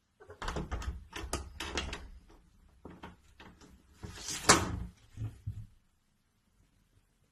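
A quick run of knocks and clatters lasting about two seconds, then a few scattered knocks, the loudest about four and a half seconds in.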